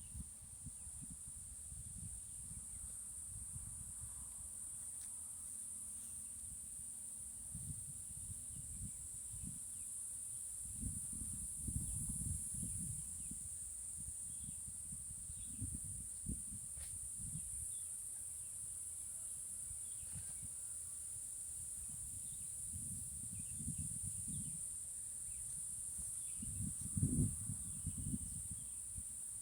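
Steady, high-pitched insect chorus, like crickets or cicadas, shrilling without a break. Irregular low rumbles come and go beneath it, loudest about halfway through and again near the end.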